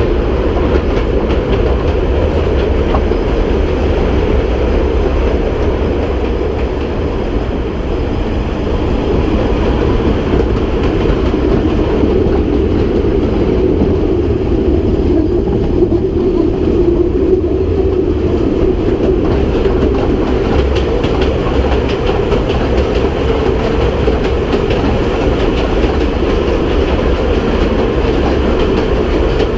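Kurobe Gorge Railway's narrow-gauge train running at speed, heard from an open-sided carriage: a steady rumble of wheels on the rails with a running clickety-clack of clicks, as it passes through concrete snow-shed galleries.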